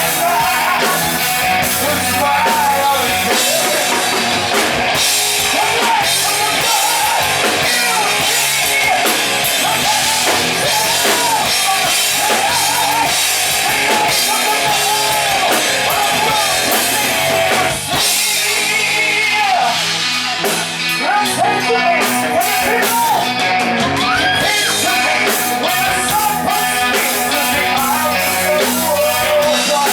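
Rock band playing live: electric guitars, bass and drum kit with a singer, and a short break in the band about eighteen seconds in.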